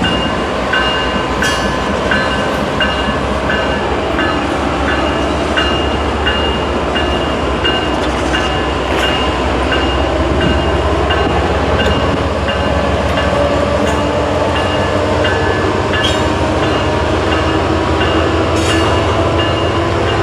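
Norfolk Southern freight train rolling by, its wheels clicking irregularly over the rail joints above a steady low rumble, with high ringing tones that come and go.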